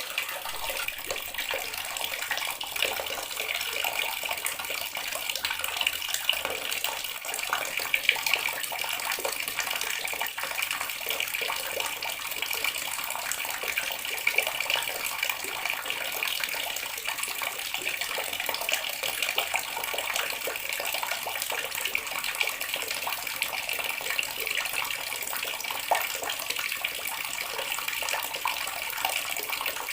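Water running steadily from a tap and splashing into a basin, an even hiss with small splashy variations.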